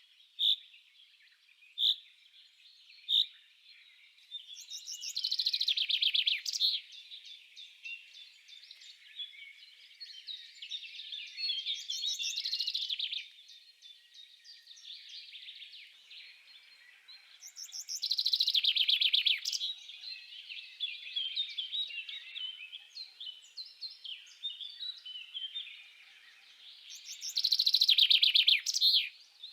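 Songbirds singing: single sharp chirps in the first few seconds, then four loud trilling song phrases about six to nine seconds apart, with quieter chirping in between.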